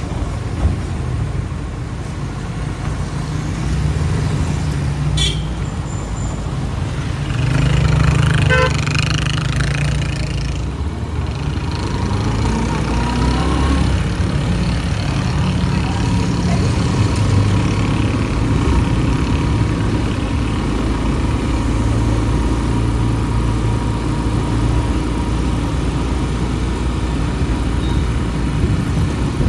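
Motorbike engine running with street traffic around it, a steady low rumble rising in pitch briefly around twelve seconds in. A vehicle horn toots briefly about eight seconds in.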